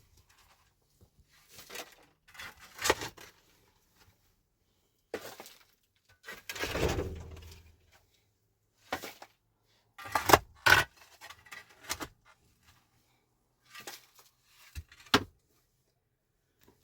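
Scattered sharp knocks and clinks of objects being handled, with a longer rustling scrape about seven seconds in.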